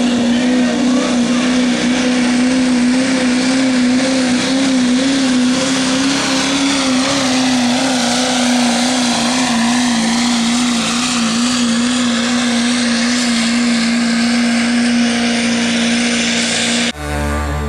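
Turbocharged diesel pickup of the 2.6 cheater class at full throttle under load on a truck-pulling run: one strong, steady engine note that wavers slightly, thick with turbo and exhaust noise. Near the end it cuts off abruptly and country music begins.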